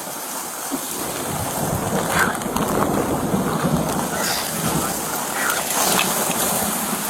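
Heavy rain and gusting wind in a storm's aftermath: a steady, even hiss.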